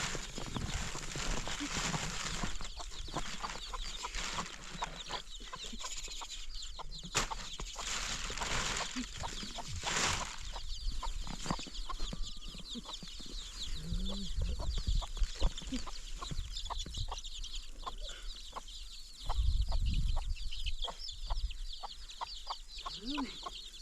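Chickens clucking and chirping, with many short clicks and taps mixed in and a brief low thud-like rumble about nineteen seconds in.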